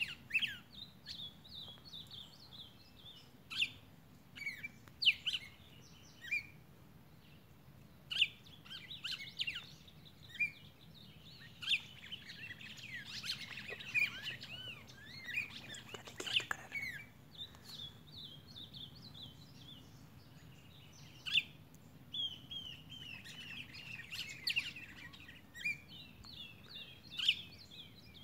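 Songbirds chirping and calling, many short, sharp notes and quick twittering phrases, busiest around the middle.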